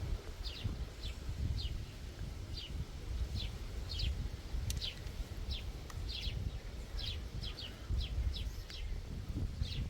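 Small bird chirping over and over, short high notes that slide down, about two a second, over a steady low rumble.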